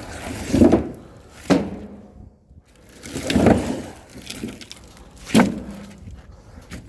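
Split oak firewood logs knocking and clattering as they are handled and dropped onto a pile: several sharp wooden knocks a second or two apart, with scraping and rumbling between them.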